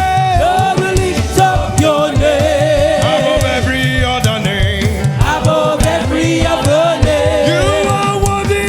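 Gospel choir singing with live band accompaniment over a steady beat.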